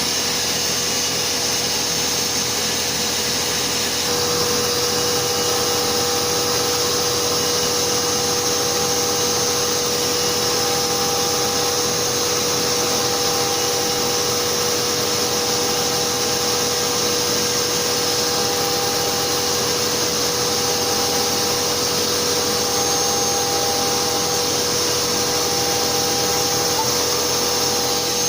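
6040Z CNC router machining a single-sided FR2 circuit board, its spindle running steadily together with the dust-extraction vacuum at the dust shoe. A steady tone joins about four seconds in, and a higher tone comes and goes every second or two as the machine moves.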